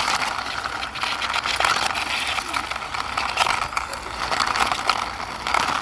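Wheels of a small toy car rolling and rattling as it is pushed along by hand, a steady gritty rolling noise with many small clicks.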